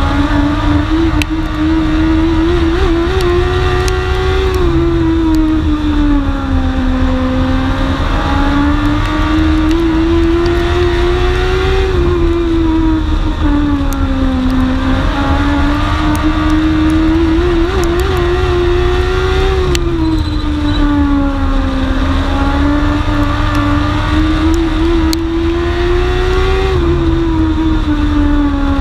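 Dwarf race car's engine heard onboard at racing speed: the engine note climbs as it accelerates, drops sharply when the driver lifts, then builds again, repeating about every seven to eight seconds, the rhythm of laps around a short oval track.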